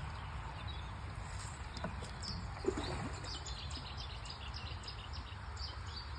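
Small birds chirping in short scattered notes over a steady low rumble, with one brief louder sound about two and a half seconds in.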